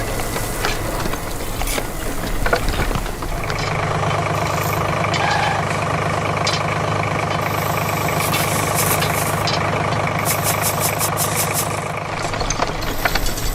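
Motor of a DIY miniature model tractor running, with irregular clattering at first and a steady hum setting in about three seconds in.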